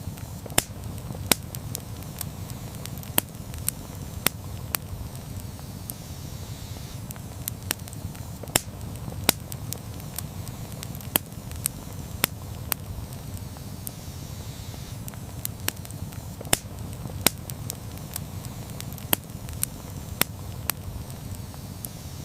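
Wood campfire crackling, with irregular sharp pops and snaps, several a second at times, over a steady low rumble of the burning fire.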